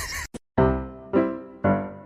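Background music: piano-like keyboard notes struck about twice a second, each fading before the next. They begin about half a second in, after a brief cut to silence.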